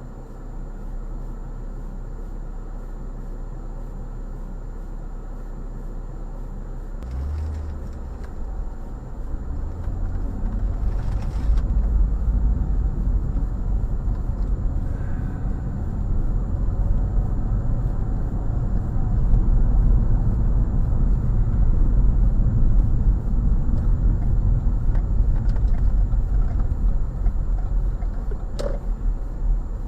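Car engine and road noise, a steady low rumble that grows louder from about seven seconds in and stays up.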